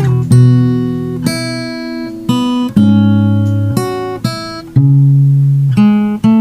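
Acoustic guitar music: plucked notes and chords, about one a second, each ringing out and fading before the next.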